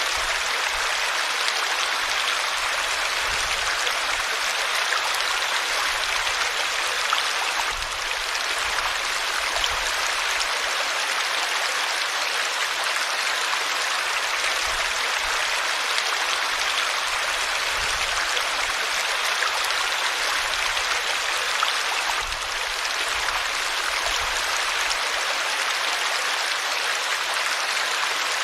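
Stream water flowing steadily over rocks, a continuous even rushing.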